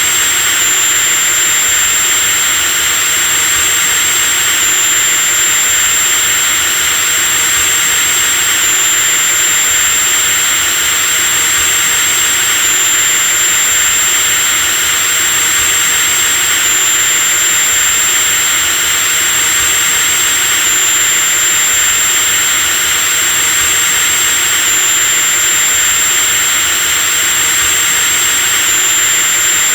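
Electric drill running continuously at a steady speed: a loud, high-pitched motor whine over a hiss, with a slight pitch step about every four seconds.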